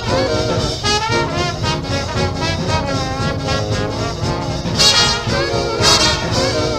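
Fast instrumental swing jazz: a brass section of trumpets and trombones playing over a driving rhythm section.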